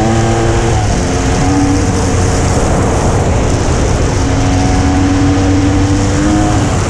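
Kawasaki KX500 two-stroke single-cylinder engine running hard under throttle on a climb, mixed with heavy wind noise on a bike-mounted camera. Its note drops about a second in, is buried in wind and road noise in the middle, then holds steady near the end.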